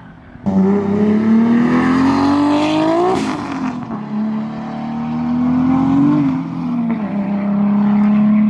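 Toyota Supra exhaust under acceleration. The note comes in suddenly and climbs steadily in pitch for about three seconds, then drops sharply. It climbs again more gently, falls back a little after six seconds and holds steady near the end.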